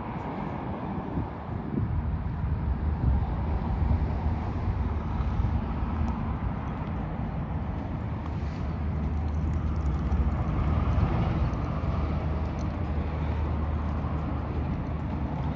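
Steady low rumble of motor vehicles running, growing a little louder about two seconds in.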